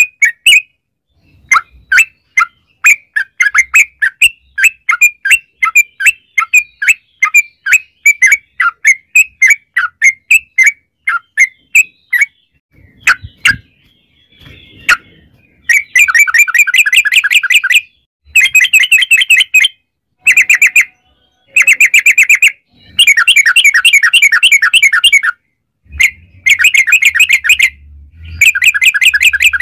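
Yellow-vented bulbul (trucukan) singing: a run of quick chattering notes, then from about halfway through long, very fast rolling trills in repeated bursts, the long 'ropel' song used to set other trucuk birds singing.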